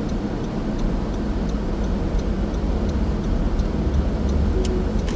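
Car driving on a winter road: steady low road and engine rumble, with a faint regular ticking about twice a second.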